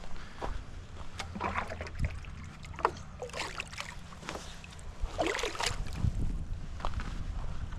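Water sloshing and splashing in several short spurts, as when water is poured from a bucket into a chicken waterer, over a low rumble of handling and wind noise.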